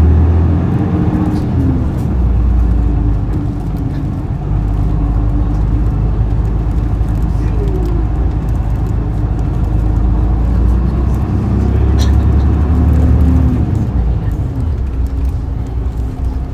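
Isuzu Erga city bus's turbo-diesel engine running under way, heard from the rearmost seat over the rear engine; its note falls, briefly rises about halfway, then rises and falls again near the end as the bus accelerates and eases off. Passengers' voices are faintly underneath.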